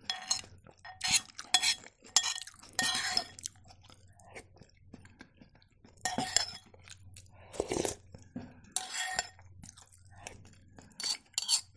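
Chewing and crunching a mouthful of food, with a metal spoon clinking and scraping against a bowl between bites, in short irregular bursts.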